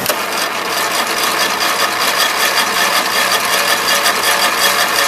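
Riding mower engine being cranked over by its electric starter on full choke, a fast, even churning rhythm that starts suddenly and keeps going without the engine catching.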